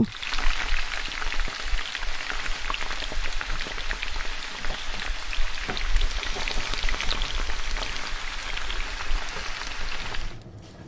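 Ghee sizzling on a hot tawa around a besan-batter-coated bread slice as it toasts: a dense, steady crackle that drops away near the end.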